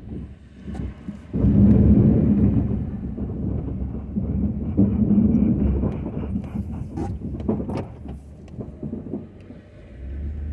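Ford F-250 pickup with a snow plow working snow: a low engine rumble that surges about a second and a half in, then eases off, with a few short clicks and knocks in the middle.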